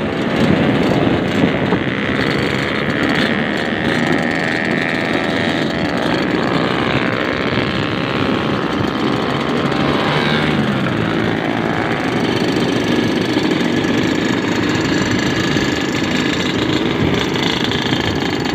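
Two-stroke Yamaha RX-King motorcycle engine running under way, its revs rising and falling.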